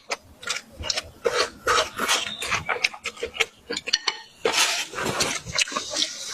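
Eating utensils clinking and scraping against dishes in a run of short, sharp taps, busiest about halfway through.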